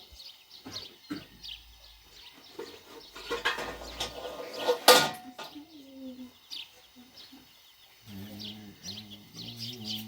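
Small birds chirping over and over, with a burst of clattering noise about three seconds in that ends in a sharp knock near the middle, the loudest sound. A voice is heard near the end.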